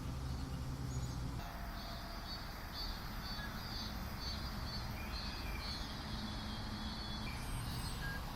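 Outdoor ambience: a steady low rumble of strong wind, with faint high chirping through the middle.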